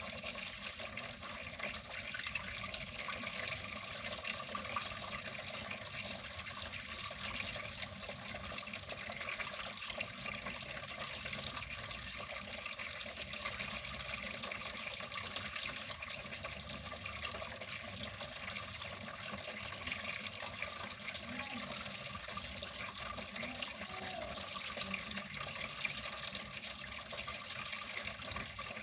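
Water flowing steadily with an even splashing rush.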